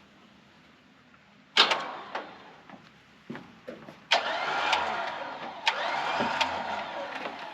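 Electric vehicle-recovery winch motor running under power, starting suddenly about a second and a half in, briefly again near three seconds, then a longer steady run from about four seconds with its pitch sliding as the load changes.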